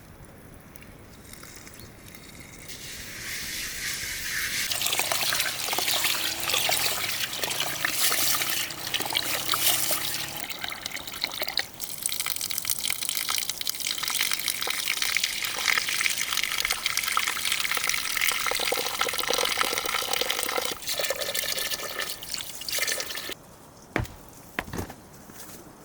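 Water running and splashing steadily for most of the stretch. It builds up over the first few seconds and cuts off shortly before the end, followed by two or three sharp knocks.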